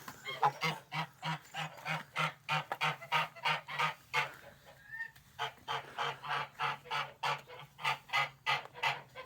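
Domestic geese honking in a rapid, even run of short calls, about three a second, with a break of about a second midway before the calls resume.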